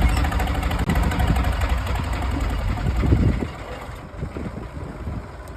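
Tractor diesel engine running hard with a loud, low, pulsing rumble, then easing off sharply about three and a half seconds in.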